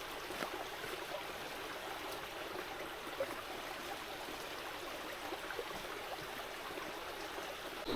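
Stream water rushing steadily, an even hiss with no change.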